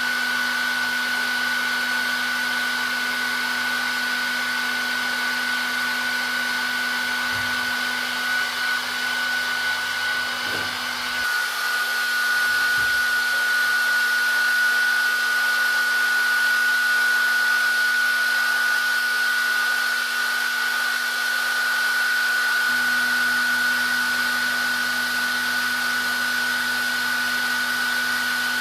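Hair dryer running steadily: a constant rush of air with a high whine on top. About eleven seconds in, its low hum drops away and the whine shifts slightly. The hum comes back about twenty-three seconds in.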